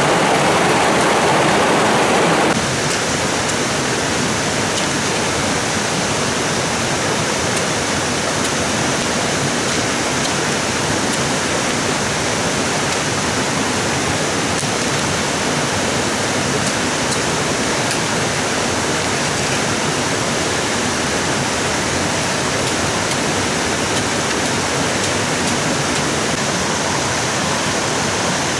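Stream water rushing steadily. About two and a half seconds in, the rush drops abruptly to a slightly quieter, hissier sound and stays even from then on.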